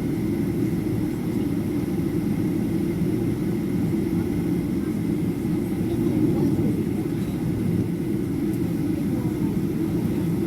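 Steady low rumble of a Boeing 737-800's cabin on the ground, the aircraft's engines and air systems running, with a faint high steady tone above it.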